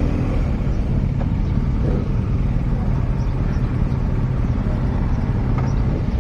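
Motorcycle engine running steadily under heavy low wind rumble.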